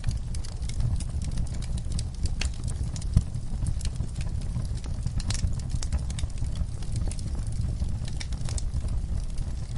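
Wood fire burning in a fireplace: a steady low rumble of flames with irregular crackles and pops, one sharper crack about three seconds in.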